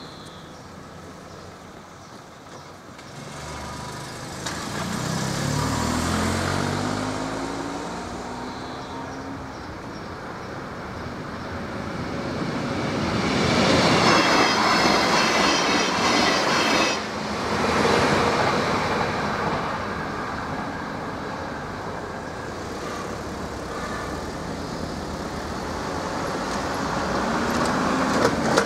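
NordWestBahn diesel multiple unit (Alstom Coradia LINT) passing over a level crossing. Its engine note climbs in steps as it approaches, then comes the loudest rush of the train going by, with a high ringing, about halfway through. Road traffic is heard moving off near the end.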